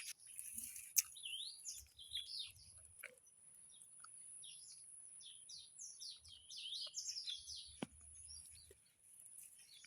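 Birds chirping in short, quickly rising and falling phrases, busiest about a second in and again between about six and eight seconds in, over a faint steady high-pitched tone. Two sharp clicks stand out, one about a second in and one near eight seconds.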